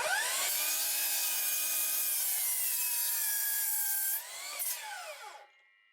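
Power saw cutting through a wooden board. The motor spins up sharply and holds a steady whine through the cut, sags slightly under load, then winds down with a falling pitch as the cut ends.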